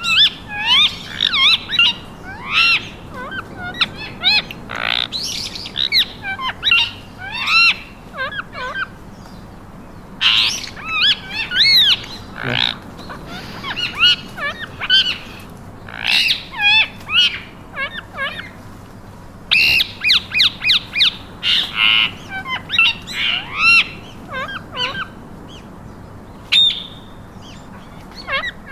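Pet parakeets chattering: bursts of quick squawks and chirps that slide up and down in pitch, with short pauses between bursts.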